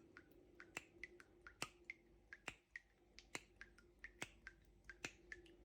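Faint, sharp clicks, about three a second in an uneven, beat-like rhythm, over a faint steady hum.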